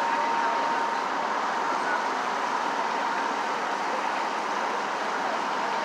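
Steady mechanical street noise, like vehicles and engines running, with a thin steady high whine that is clearest in the first couple of seconds.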